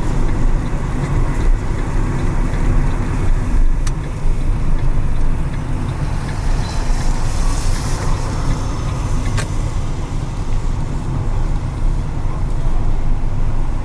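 Steady low rumble of a car driving, with engine and tyre noise on wet pavement. Two sharp clicks come about 4 and 9.5 seconds in.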